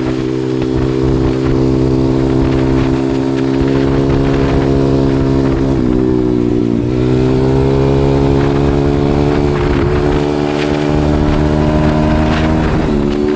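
140cc pit bike's single-cylinder four-stroke engine running under way at fairly steady throttle. Its note dips and picks back up about halfway through, and briefly twice more near the end.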